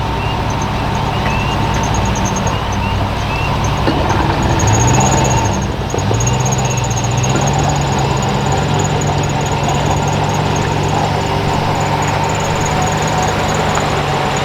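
Vehicle engine running steadily. Its pitch drops briefly about five seconds in, then picks back up and holds. A string of short, high repeated chirps sounds over it.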